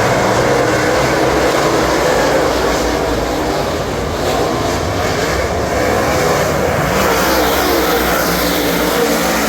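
Ford 422-cubic-inch V8 of a dirt super late model running hard at racing speed, heard on board, its pitch rising and falling as the revs change.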